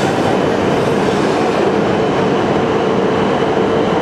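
Hokuriku Shinkansen E7/W7-series train moving along the platform: a loud, steady rush of running noise with a constant hum, no pauses.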